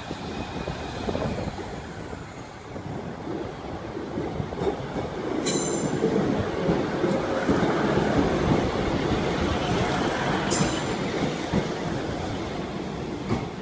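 Northern diesel multiple unit running into the platform and rolling past close by, its rumble growing louder as it comes near. Two sharp clicks sound about five seconds apart.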